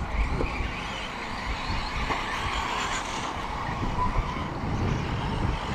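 Radio-controlled short-course trucks racing around the track: a steady mix of small motors and tyres on the surface, with no single event standing out.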